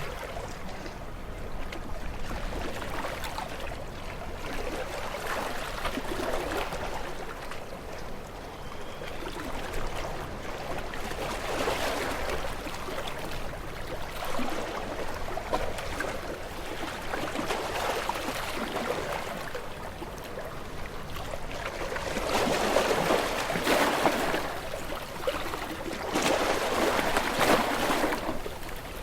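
Gentle sea waves washing onto a shore, each breaking as a swelling hiss of surf that fades again, a few seconds apart; the two loudest come near the end.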